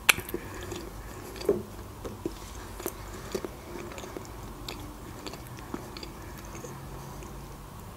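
Close-miked mouth sounds of a person chewing food with the mouth closed: soft, wet clicks scattered through, with one sharper tap right at the start.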